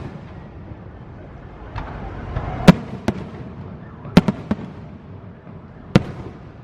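Aerial fireworks shells bursting: a series of sharp bangs at irregular intervals, the loudest a little under three seconds in, then a quick run of three about four seconds in and a last single bang near the end.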